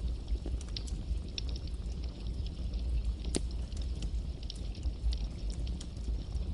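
Campfire burning with a low rumble of flames and irregular crackles and pops, one sharper pop a little past the middle.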